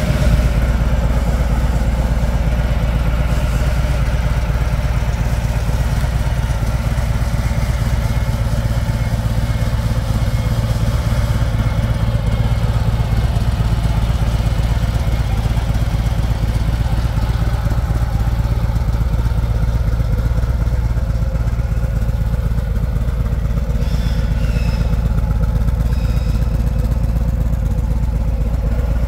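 2019 Harley-Davidson Road King's Milwaukee-Eight V-twin idling steadily through its black exhaust, a fast, even pulse of exhaust beats.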